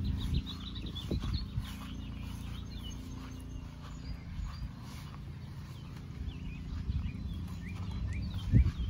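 Small birds chirping repeatedly in the background over a low steady rumble, with a few soft thumps about a second in and again near the end.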